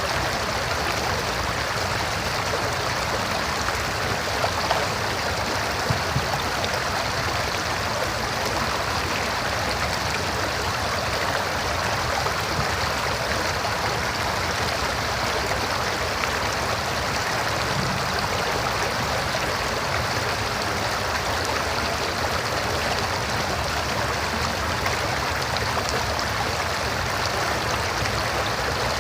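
River water flowing over rocks, a steady rushing and babbling with small splashes now and then.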